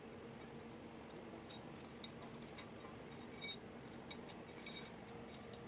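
Light metallic clicks and clinks of hand tools and loosened bolts on diesel engine parts during dismantling, several scattered taps over a steady faint hum.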